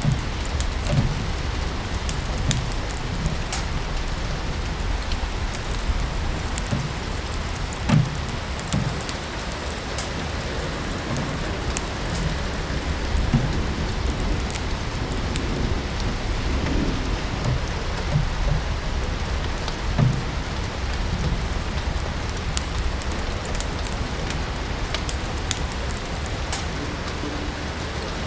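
Steady rain mixed with a crackling wood fire: an even hiss of rain with scattered sharp crackles and pops, a few louder low pops, and a steady low rumble underneath.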